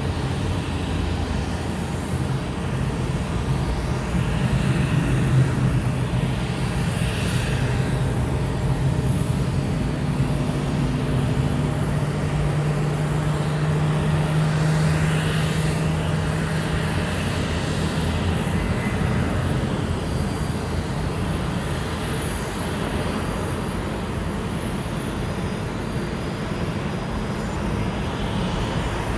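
Boeing 737-800's CFM56 jet engines running: a steady rumble with a low tone that slowly rises in pitch.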